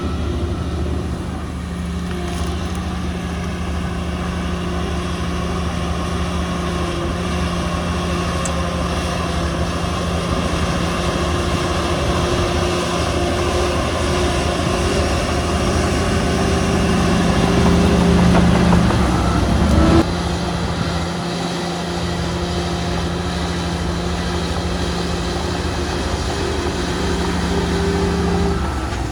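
Heavy diesel engine of earthmoving machinery running steadily. It works louder from about 17 seconds in, then eases off abruptly with a click about 20 seconds in.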